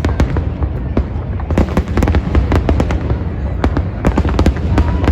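Aerial fireworks bursting in quick clusters: a string of sharp cracks and bangs over a continuous low rumble of booms.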